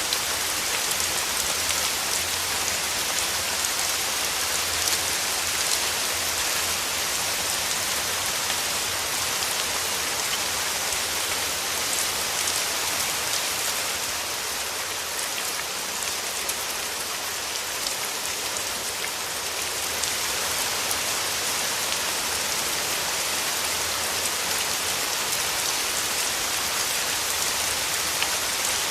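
Steady rain falling, a continuous hiss of drops on surfaces with fine patter throughout.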